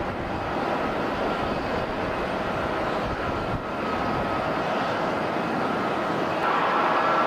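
Passenger jet engines running, a steady rushing noise with a thin whine in it. About six seconds in, the low rumble drops away and the whine grows stronger.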